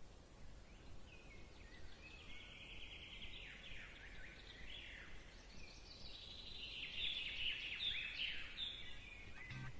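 Faint birdsong: a string of quick chirps and short sweeping trills, growing slightly louder in the second half.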